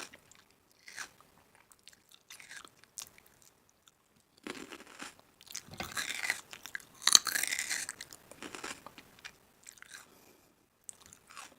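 Crunching of crisp food being bitten and chewed, in irregular bursts, the loudest about seven seconds in.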